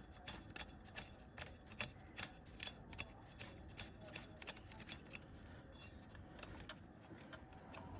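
Faint, irregular light metallic clicks and ticks, a few a second, as a locking nut is spun back onto its threaded shaft on a motorcycle engine.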